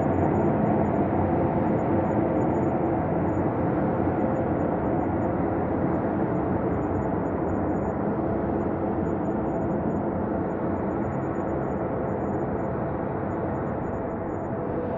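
Synthesized ambient space drone: a steady wash of low noise with faint held tones underneath, easing slightly quieter toward the end.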